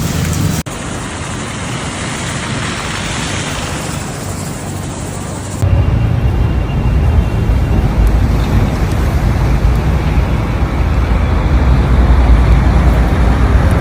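Steady road traffic noise, changing abruptly twice. A heavy low rumble takes over for the second half.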